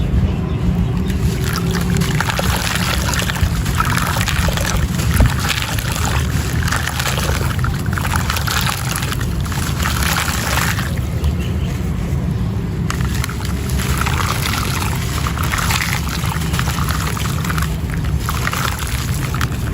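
Gritty sand-and-cement texture crumbling, in patches of crackly, crunching bursts that come and go every second or two, over a steady low hum.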